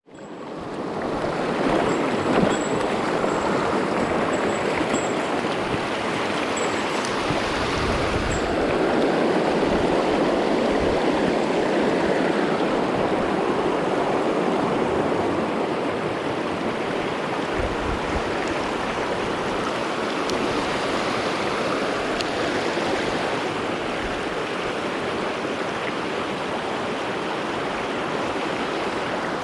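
Small mountain stream flowing over rocks, a steady rush of water that fades in over the first second.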